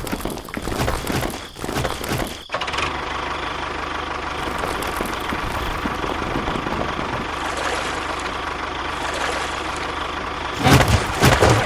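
A small motor running steadily, after an abrupt change about two and a half seconds in, with a louder, irregular clattering stretch near the end.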